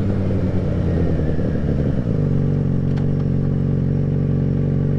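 Yamaha XJ6N's inline-four engine running while under way on the road. Its note changes about two seconds in, then holds steady.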